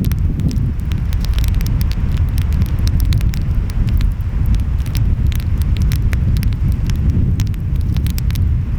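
Wood fire crackling, with many sharp irregular pops and snaps, over a steady low rumble of ocean waves and wind.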